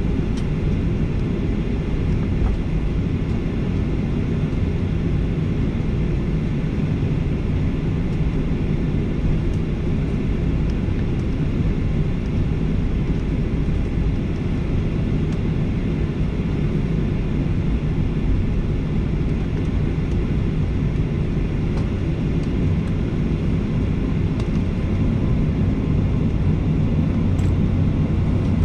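Steady cabin noise inside a Boeing 737-800 on the ground: its CFM56-7B jet engines run at low taxi power under an even airframe rumble.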